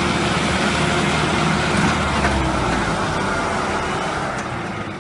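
Heavy vehicle engine running steadily under a wash of road and mechanical noise, easing off a little near the end.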